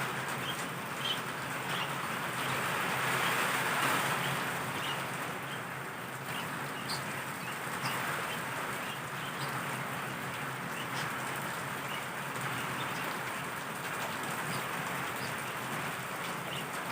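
Heavy downpour of rain falling steadily, with scattered short, faint high ticks over it; it swells a little a few seconds in.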